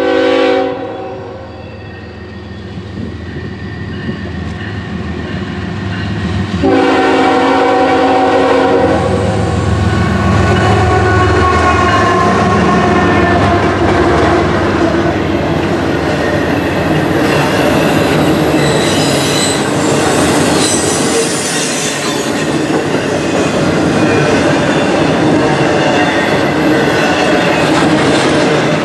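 CSX diesel-hauled double-stack container train passing close by. The horn gives a short blast at the start and a longer, louder one about seven seconds in as the locomotive nears. The locomotive then goes past and the container cars roll by, wheels clattering and squealing on the rails.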